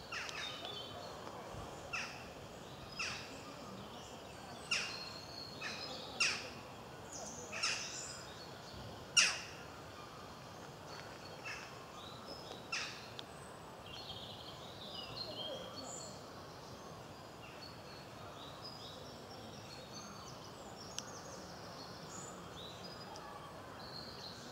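Woodpecker giving short, sharp single call notes at irregular intervals of about a second, about a dozen over the first half, the loudest a little past the middle of that run. After that, fainter high twittering of small songbirds over a steady outdoor background hiss.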